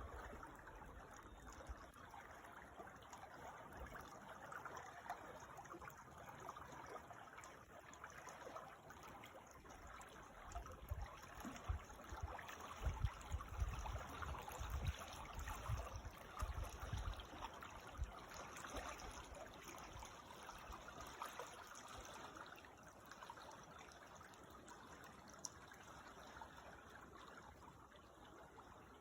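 Creek water trickling and babbling steadily and faintly, with a few low rumbles in the middle stretch.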